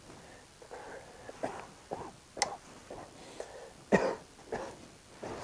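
A person coughing and clearing their throat: several short throaty sounds, the loudest about four seconds in.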